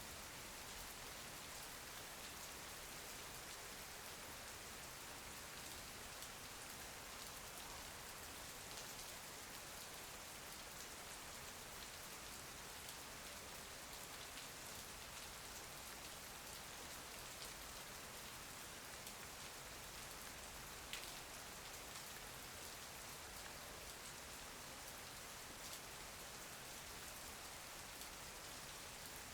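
Steady rain falling, a faint even hiss, with one sharper drop or tick about two-thirds of the way through.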